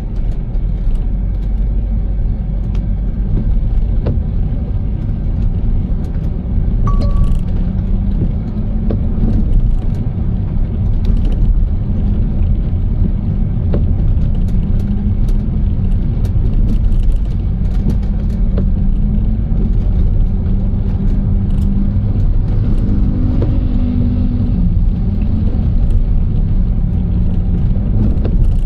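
Car driving, heard from inside the cabin: a steady low road-and-engine rumble whose pitch wavers slightly with speed, with scattered light ticks. There is a short single beep about seven seconds in.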